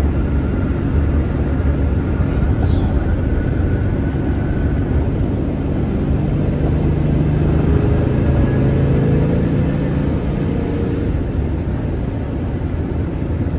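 A car being driven: a steady engine and road rumble, with the engine note swelling and rising a little from about halfway through.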